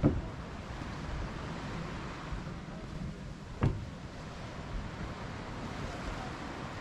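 Mediterranean sea waves washing steadily, with wind on the microphone. Two short sharp thumps, one right at the start and one about three and a half seconds in.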